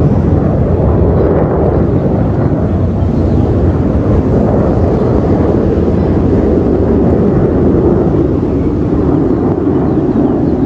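Jet aircraft flying past, a loud, steady, low rumble.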